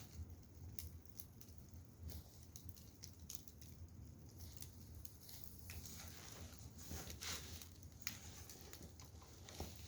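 Burning firewood crackling, with irregular small pops and snaps over a faint steady low hum.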